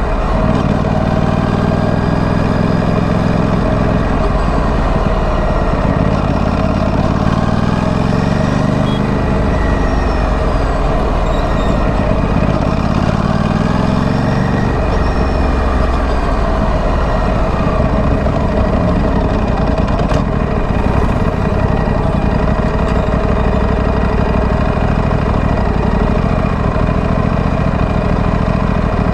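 2025 Aprilia Tuono 457's 457 cc parallel-twin engine through its stock exhaust, running on the move. Its pitch rises and falls repeatedly with the throttle for about the first half, then holds lower and steadier for the rest.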